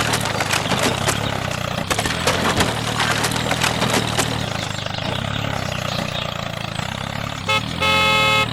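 A small engine running steadily with a rattling crackle over the first few seconds, then a short beep and a longer beep near the end.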